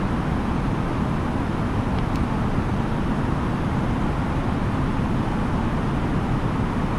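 Steady cabin noise inside an Airbus A330-900neo airliner: the rumble of the engines and the airflow, heaviest in the low end. A faint click comes about two seconds in.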